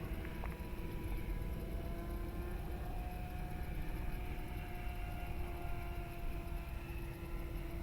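Electric motor and propeller of a Dynam Super Cub RC plane in flight at part throttle, a steady whine that rises slightly in pitch about two seconds in and eases off again near the end, over a low rumble.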